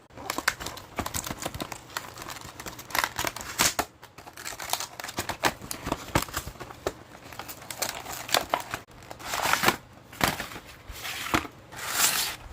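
Packaging of a Bakugan card set being opened by hand: plastic and paper crinkling and crackling, with several longer tearing sounds in the last few seconds.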